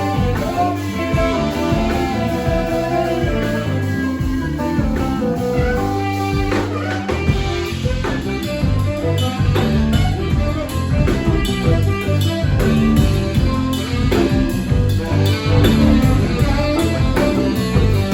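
Live band playing a guitar-led blues-rock passage over a drum kit, with no singing.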